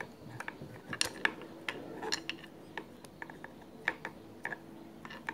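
Irregular light metallic clicks and taps from handling the metal parts of an old sewing machine around a screw on its underside.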